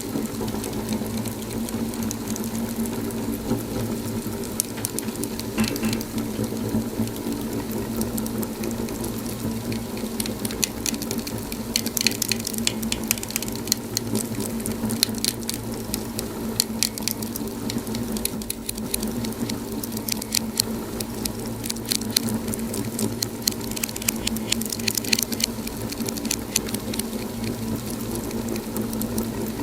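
Fire in a fireplace crackling: a steady low rush of burning under a constant scatter of small pops and snaps, with busier runs of crackling now and then.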